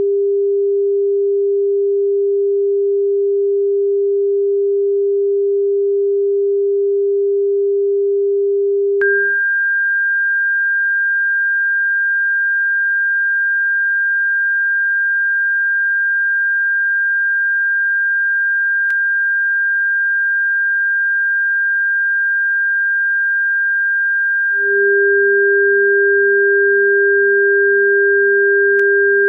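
Electronic pure sine tones from a bird-repellent frequency track: a steady low tone for about nine seconds, then switching to a steady high tone about two octaves up, with the low tone joining it again near the end.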